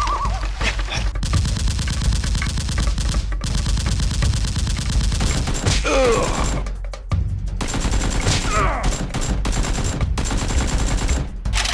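Rapid automatic gunfire in long bursts, most dense in the first half, over background music with a steady low bass.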